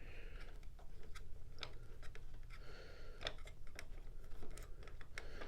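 Faint, scattered clicks and taps of parts being handled as a foot is fitted to a panel heater and fastened with a wing nut by hand.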